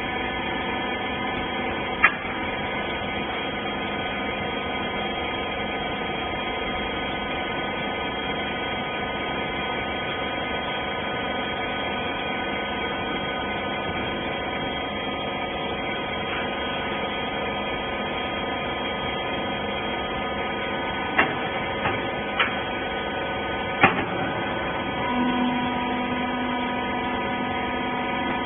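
Wiper baler machine running with a steady hum made of several fixed tones, broken by a few sharp knocks, one about two seconds in and three more near the end. A new steady tone joins in a few seconds before the end.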